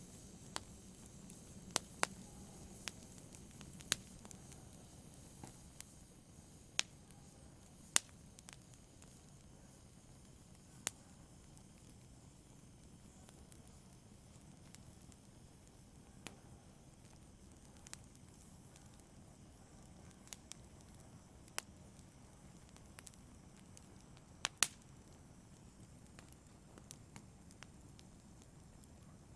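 Campfire wood crackling: irregular sharp pops every second or two over a faint, steady low hiss of the burning fire.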